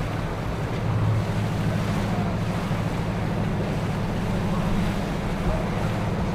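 A boat's engine running steadily with a low hum, over the wash of water and wind buffeting the microphone.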